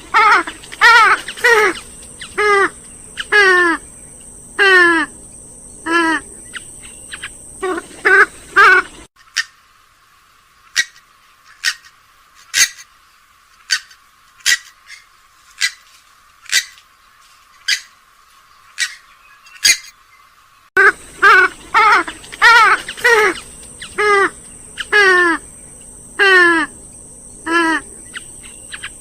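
Gallinules (swamphen and moorhen type rails) calling in a rapid series of harsh, downward-sliding notes. About 9 s in, the recording switches for roughly 12 s to short, sharp clicks or notes spaced about a second apart with no low end. The descending call series returns about 21 s in.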